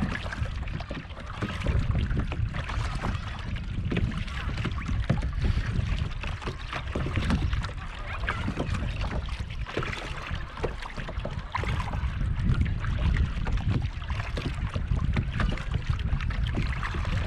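Kayak paddling: paddle strokes splashing, with water dripping and lapping at the hull. Wind rumbles on the microphone.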